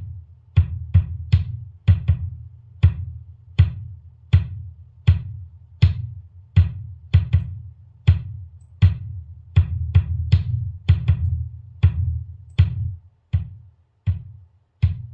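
Sampled bass drum hits from Addictive Drums 2, with the overhead microphone channel soloed while a compressor is set on it. The kick plays an uneven pattern of about two hits a second, each with a low, boomy tail. Near the end the tails stop short, leaving gaps of silence between hits.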